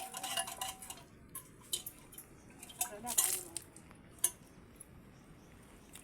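Scattered clinks and knocks of kitchenware being handled, loudest around three seconds in, with a brief voice in the background.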